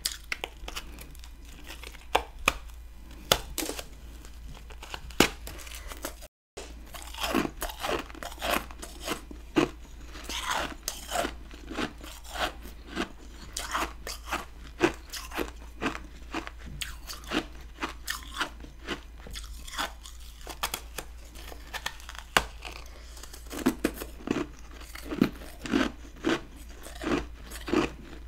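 Close-up crunching and chewing of chunks of hard freezer frost ice in the mouth: a dense, irregular run of crisp crunches, with a split-second dropout about six seconds in.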